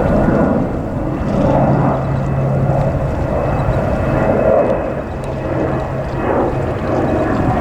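Jet airliner engines running loud and close, a steady rumble with a low hum through the middle.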